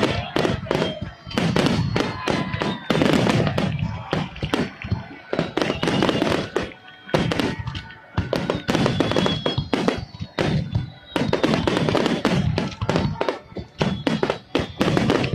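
Finale of an aerial fireworks display: shells bursting in rapid, near-continuous volleys of booms and sharp cracks, with a few brief lulls.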